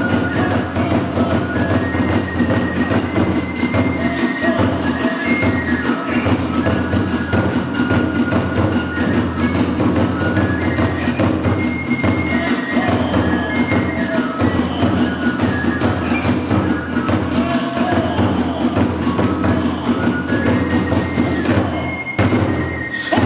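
Hiroshima kagura music: a high bamboo flute melody over rapid, continuous drumming and clashing hand cymbals, with a brief break near the end.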